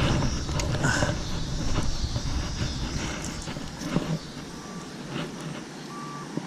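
A vehicle's reversing alarm starts beeping about four and a half seconds in, a single steady tone repeated at an even pace. Before that a low rumble fills the sound and fades out about four seconds in.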